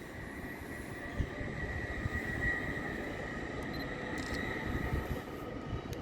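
A train rumbling past with a steady high-pitched squeal that swells about two and a half seconds in and fades out near the end.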